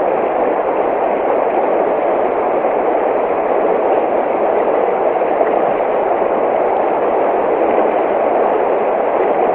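Steady, even rush of running water, a stream or waterfall, with no breaks or splashes standing out.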